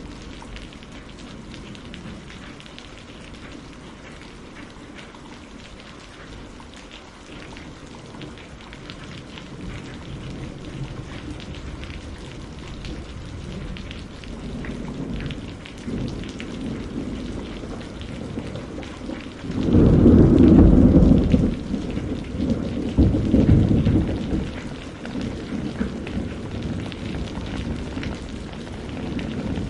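Steady rain falling, slowly growing heavier, with a loud low roll of thunder about two-thirds of the way in. The thunder swells a second time a few seconds later, then fades back under the rain.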